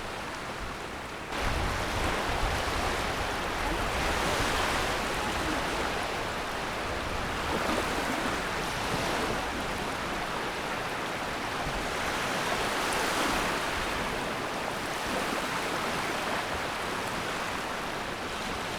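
Water rushing and washing, swelling and easing every few seconds, with wind rumbling on the microphone from about a second in.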